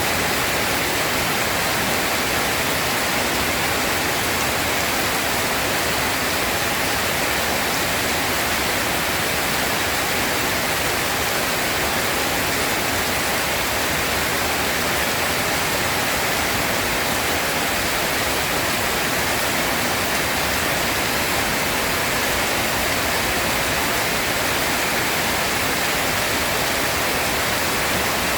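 Steady rain, an even, unbroken hiss with no thunder.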